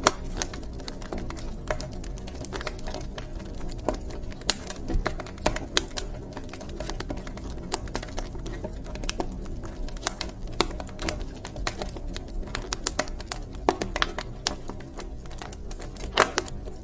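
Wood fire crackling in a fireplace: dense, irregular snaps and pops over a low steady rumble of the burning fire.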